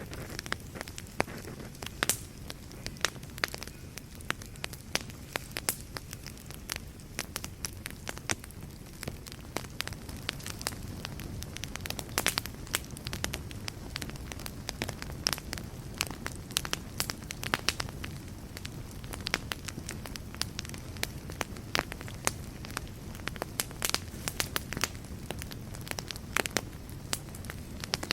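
Wood fire burning in a fireplace: sharp, irregular crackles and pops over a steady low rumble of flame.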